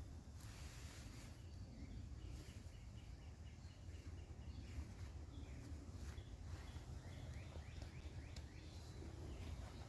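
Faint songbirds chirping, with a quick run of repeated high notes a couple of seconds in, over a steady low background rumble.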